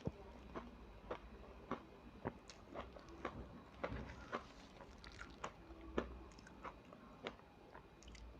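Close-up crunching and chewing of matcha ice: a run of sharp, crisp crunches at irregular spacing, about two a second. The loudest comes about six seconds in.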